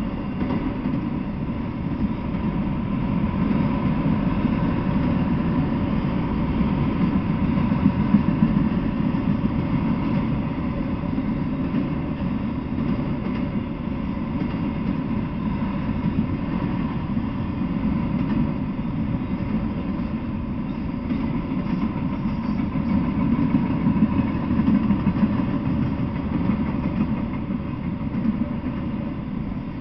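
Freight train of autorack cars rolling past, a steady low rumble of wheels on rail that swells and eases slightly.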